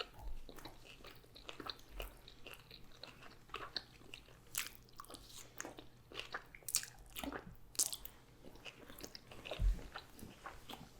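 Close-miked eating: chewing and biting food, a run of small irregular mouth clicks and soft crunches. One low bump comes near the end.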